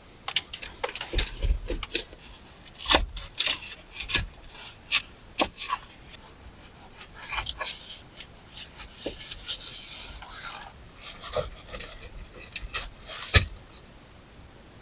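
Irregular scraping and rubbing with scattered sharp clicks and knocks, as of wood being handled or worked by hand.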